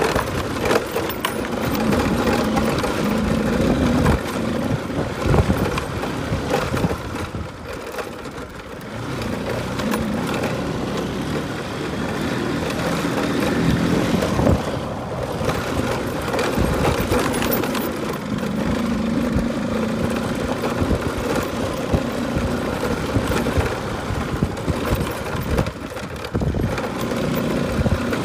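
Motorcycle running while being ridden, its engine note swelling and easing several times, with steady riding noise underneath.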